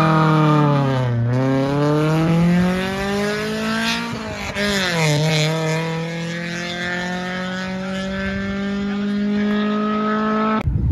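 Honda Prelude's four-cylinder engine revving hard through the gears: the revs drop at a shift about a second in, climb again, drop at another shift a few seconds later, then hold high and rise slowly. The sound cuts off sharply near the end.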